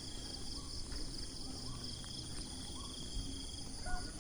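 Steady chorus of insects in the countryside, a continuous high-pitched trilling, with a few faint short bird chirps.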